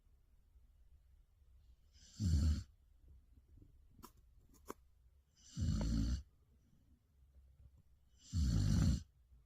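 Samoyed dog snoring: three short snores about three seconds apart, each lasting about half a second. Two faint clicks fall between the first and second snore.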